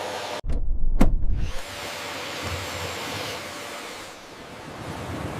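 Vacuum cleaner running with a steady rushing hiss. About half a second in it is broken by a loud, deep rumble with a sharp knock in the middle, lasting about a second.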